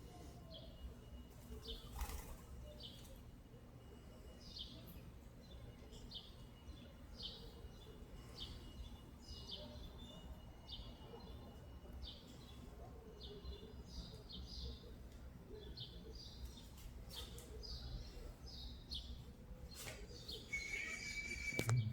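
Small birds chirping: short, high, falling chirps repeating about once or twice a second, over faint outdoor background noise.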